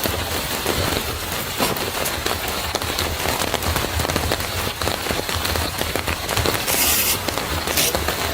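Steady rain patter, a dense hiss full of sharp taps and crackles, with a brief louder, hissier spell about seven seconds in.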